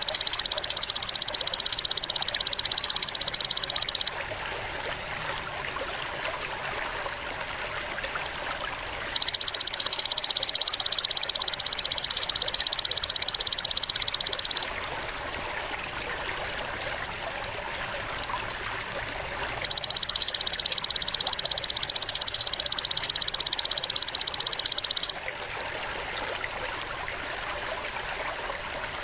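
Belalang emas (golden grasshopper) stridulating in three long, even buzzes of about five seconds each, with pauses of about five seconds between them. Faint trickling water and bird calls run underneath.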